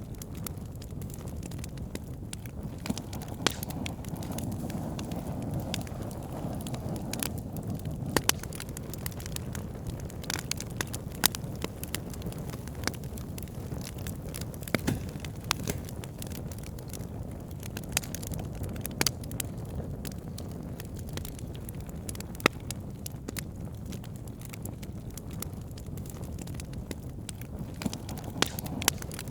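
Campfire burning: a steady low rush of flame with frequent crackles and sharp pops at irregular intervals, a few of them standing out loudly.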